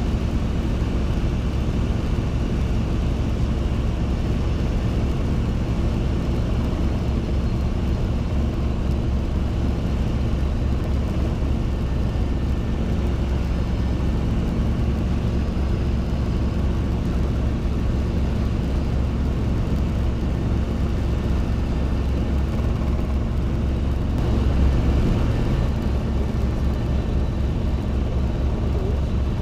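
Robinson R22 helicopter in flight, heard from inside the cabin: the steady drone of the piston engine under the fast, even beat of the main rotor, with a brief swell near the end.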